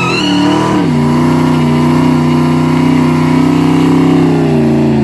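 Truck engine with a Whipple 3.4 supercharger revving, the supercharger's whine audible above the exhaust. The revs and whine rise, fall back about a second in, then hold steady at an elevated speed.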